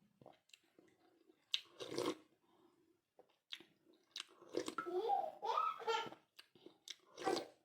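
Close-up eating sounds of thukpa noodle soup: chewing and short mouth noises, several times. A person's voice sounds briefly in the middle.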